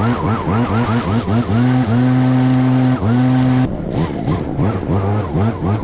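Echo PB-9010T backpack leaf blower's two-stroke engine running near full throttle, its pitch dipping and recovering rapidly and repeatedly as the throttle is feathered, with a steady stretch about two seconds in. Past the middle the sound turns rougher and noisier.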